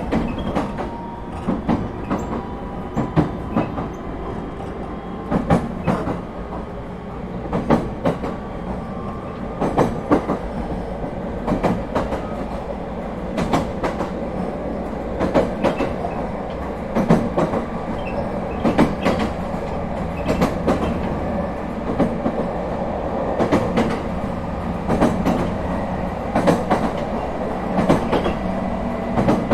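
Running sound heard aboard an ET127 series electric train: a steady rumble with the wheels clicking over rail joints in regular pairs, about one pair every two seconds, and a faint whine that slowly falls in pitch.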